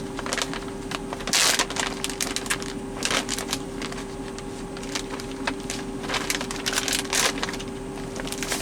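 Plastic packaging of crawfish being handled and pulled open, crinkling and crackling in irregular bursts, over a steady hum.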